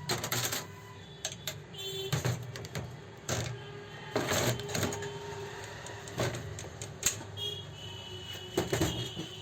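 Sharp metallic knocks and clinks at uneven intervals: tools and metal parts handled while repairing an old Revo 81-3 overlock sewing machine.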